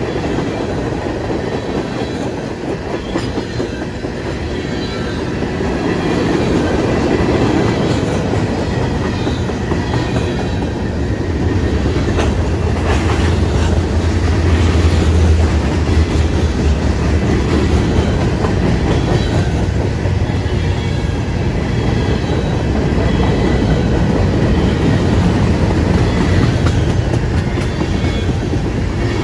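Freight cars of a CSX mixed freight train, mostly tank cars and covered hoppers, rolling steadily past: a continuous rumble and clatter of steel wheels on the rails.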